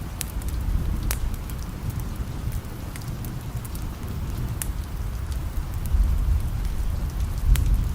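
Steady rain with a wood fire crackling, its sharp pops scattered irregularly through the rain, over a low rumble that swells about six seconds in.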